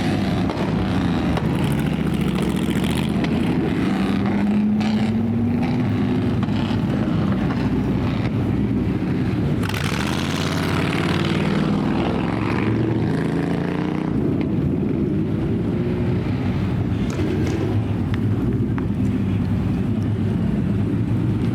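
Car engines running with a steady exhaust rumble whose pitch rises and falls gently a few times as they are revved.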